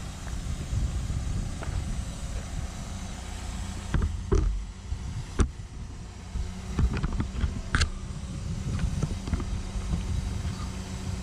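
Cat 314E excavator's diesel engine running with a steady low rumble while the machine works rock, with several sharp knocks and clacks about four to eight seconds in. A steady low hum joins about two-thirds of the way through.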